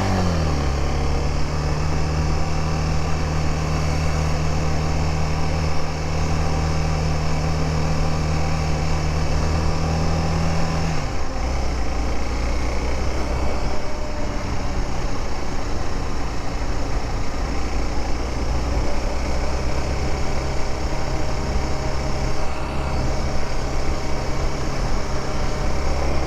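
Honda Dominator motorcycle engine running steadily under way, with wind rush. The engine note drops right at the start and again about eleven seconds in, then rises a little around nineteen seconds, as the rider changes speed or gear.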